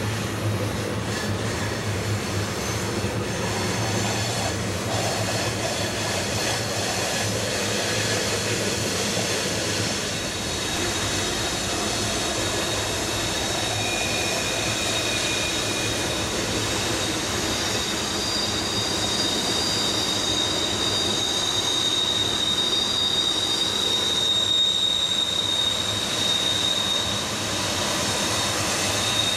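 A heavy loaded grain train's covered hopper cars rolling slowly around a tight curve on a steep downgrade: a steady rumble of wheels on rail with high-pitched wheel-flange squeals. One squeal sounds strongly through much of the second half.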